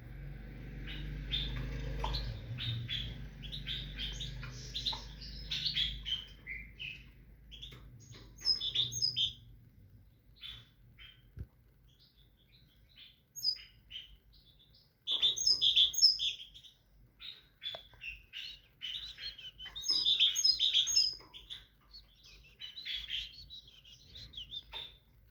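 A tit singing and calling in bouts of quick, high chirps, with pauses of a second or more between bouts. A low rumble runs under the first third.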